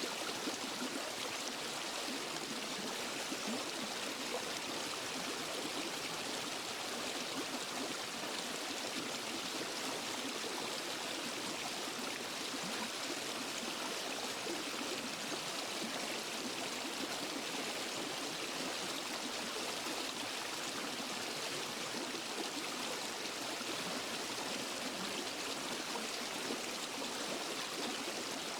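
Water of a waterfall and forest stream flowing steadily: an even, unbroken rushing hiss, brightest in the high range and with little low rumble.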